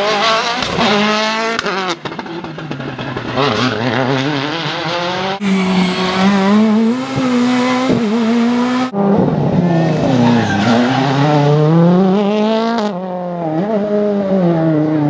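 World Rally Cars' 1.6-litre turbocharged four-cylinder engines at full stage pace, their pitch rising and falling as they rev through the gears. The sound changes abruptly three or four times as one car's pass gives way to another's.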